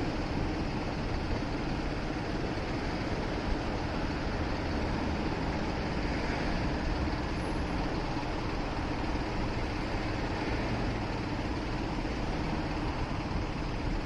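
Motorcycle riding at a steady pace on a city street: an even engine hum under steady road and wind noise.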